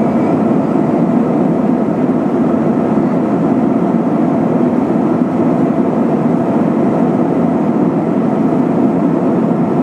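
Steady cabin noise of an Airbus A320 in flight: rushing airflow and engine drone heard from inside the passenger cabin, loud and even.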